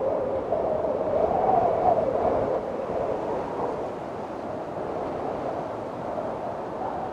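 Windstorm: strong wind blowing in gusts, with a faint whistle that wavers up and down in pitch. It swells about a second in, then eases.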